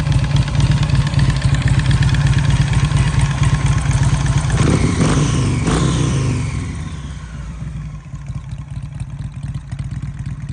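Custom bagger motorcycle's V-twin engine running with a steady, loud pulse; about five seconds in it surges briefly with a couple of sharp sweeps, then drops back to a quieter, steady run.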